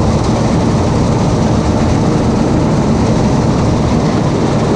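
Bizon Z056 combine harvester running steadily while cutting grain, its diesel engine and threshing machinery making a constant loud drone.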